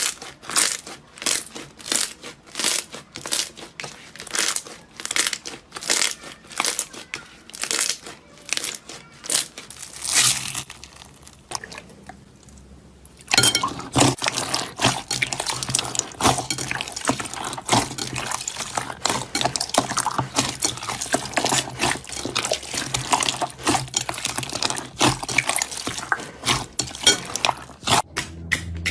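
Slime being pressed and poked by hand, giving wet, sticky clicks and pops in an even rhythm, about two a second. About halfway through it turns into a dense, continuous crackling of many small pops, and the even rhythm of clicks comes back near the end.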